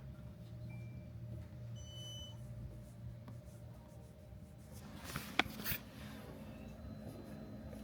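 Faint scratching of writing over a steady low room hum, with two short electronic beeps in the first couple of seconds and a brief cluster of clicks about five seconds in.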